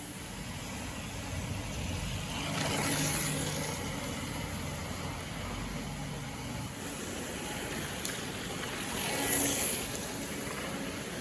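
A motor running steadily with a low hum, swelling louder twice, about three seconds in and near the end.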